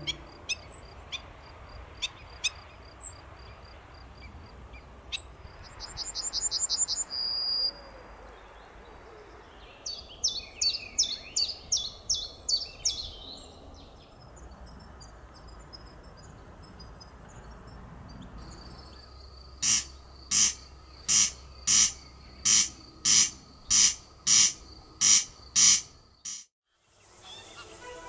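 Wild birds calling over a light outdoor background. There are scattered sharp calls, a fast high trill, then a quick run of calls, and near the end one loud call repeated about twice a second.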